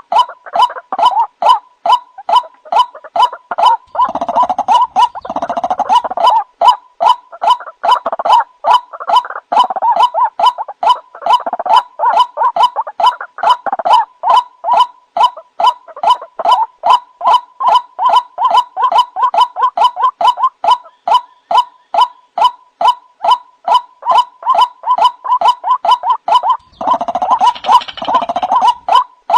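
White-breasted waterhen (ruak-ruak) calling: a long run of harsh, croaking notes repeated about three times a second, the lure call used to draw the bird in. About four seconds in, and again near the end, the calls thicken and overlap for a couple of seconds.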